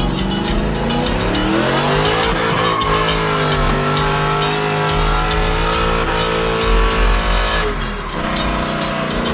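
Pickup truck doing a burnout: the engine revs climb over about two seconds and hold high while the tyres squeal, then drop off sharply near the end to a lower steady run. Music plays underneath.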